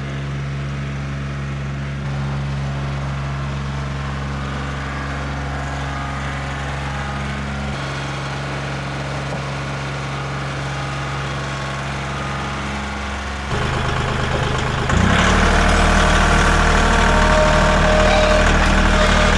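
An engine idling steadily. Its pitch shifts a little partway through, and it gets louder and fuller near the end.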